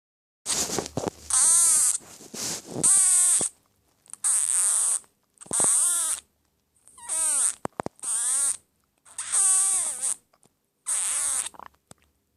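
A person making odd squeaky, hissing vocal noises, about ten short bursts with a wobbling pitch and breaks between them.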